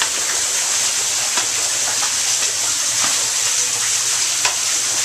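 Steady rushing of falling water, with a few faint ticks.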